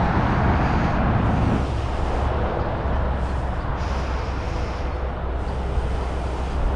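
Yellow DAF truck driving off, its engine a steady low rumble after a louder rush of noise in the first second or so.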